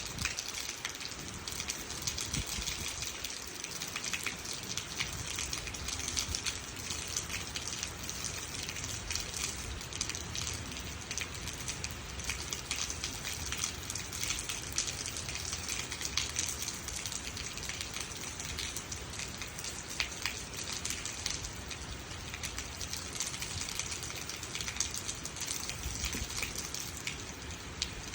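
Steady rain falling, with many small drop impacts pattering on surfaces over a continuous wash of water.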